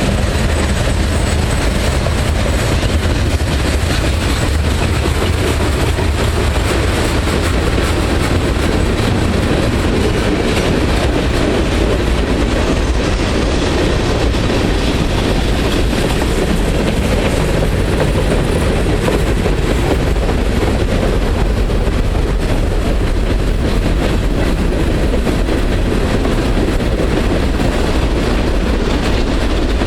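A long freight train rolling past close by: a steady rumble and clatter of steel wheels on the rails.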